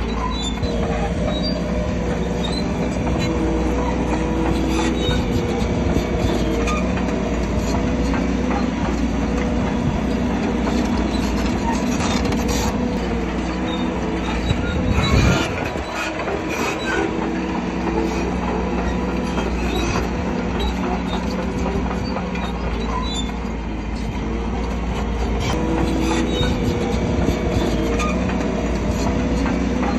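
Crawler bulldozer working: diesel engine running steadily under load while its steel tracks clank and squeal. One louder burst about halfway through.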